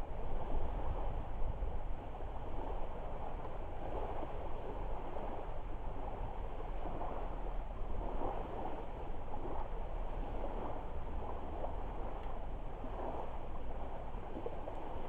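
Driftwood campfire burning: a steady rushing noise with faint flickers of crackle, and a low wind rumble on the microphone underneath.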